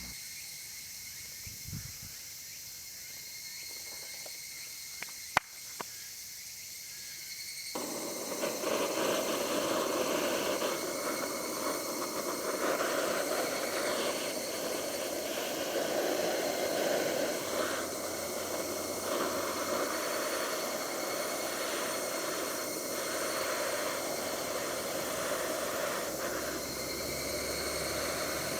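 Insects chirring steadily with a sharp click or two, then about eight seconds in food starts sizzling loudly as it cooks and keeps on sizzling.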